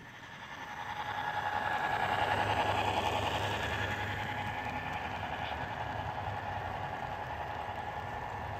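A train passing by: its rumble swells over the first two or three seconds, then slowly fades.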